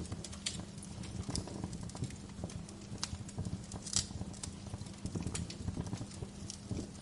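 Wood fire crackling: irregular sharp pops and snaps over a low steady rumble of the flames, with the loudest pop about four seconds in.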